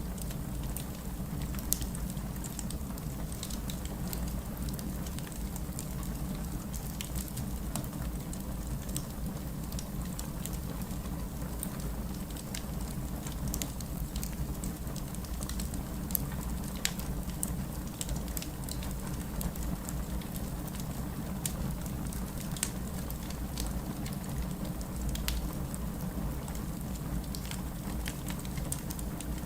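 Steady rain with a low rumble underneath, mixed with fireplace crackling: scattered sharp crackles and pops at irregular intervals over the even hiss.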